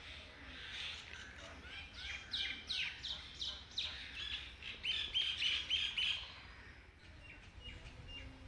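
Small birds chirping: a fast run of short, repeated, falling chirps for about four seconds in the middle, then a few faint calls near the end.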